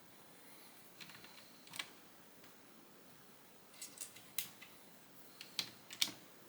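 Lego bricks being handled and pressed together: scattered sharp plastic clicks and taps, with a small cluster near the middle and the two loudest clicks near the end.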